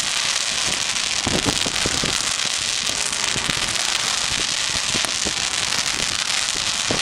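Fireworks crackling steadily, with scattered sharp pops that grow denser near the end.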